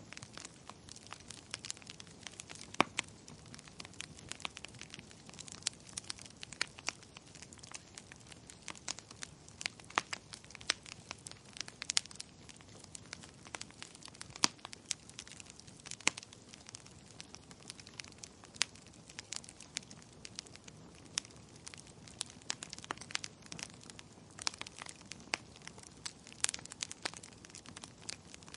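Wood fire burning, with irregular sharp crackles and pops from the logs over a low steady hiss.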